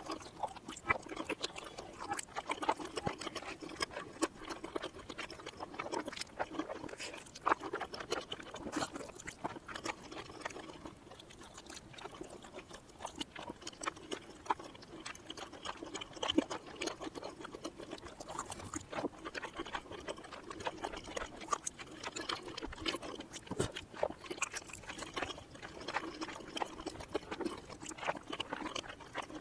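Close-miked eating sounds of chewing cheesy mini rice cakes, played in reverse: a dense, continuous run of mouth clicks and smacks.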